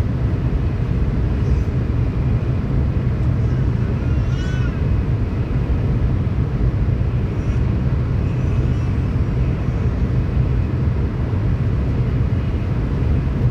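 Steady low rumble of a Tokaido Shinkansen train running at speed, heard inside the passenger car. About four and a half seconds in, a brief high wavering squeal cuts through.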